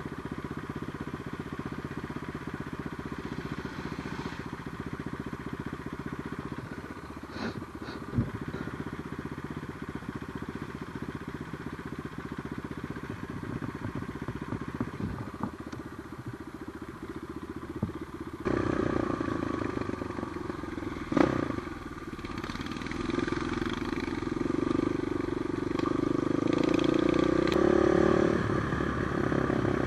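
Trail motorcycle engine running as the bike is ridden, with a few sharp knocks. Partway through the sound cuts to a louder engine, whose note rises near the end as the bike accelerates.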